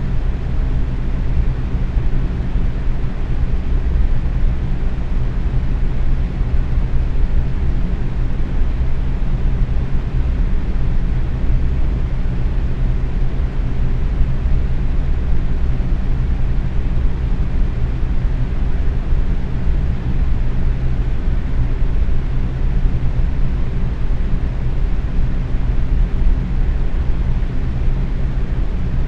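Box fan running steadily at medium speed, a constant airy whoosh with a low hum from the motor and blades.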